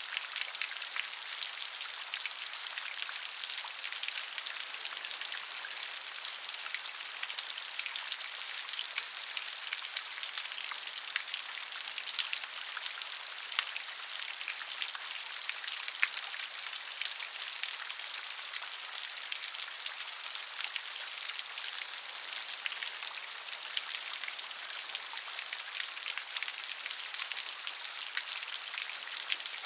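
Steady rain with many separate drops ticking sharply on a surface over a continuous hiss.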